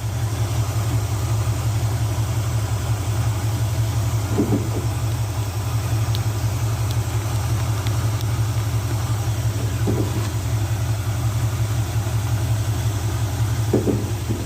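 A 1970s GM pickup's 350 cubic inch Chevy V8 idling steadily while its ignition timing is checked with a timing light. The timing reads about 20 degrees before top dead center, more advanced than the 12 degrees it is meant to have.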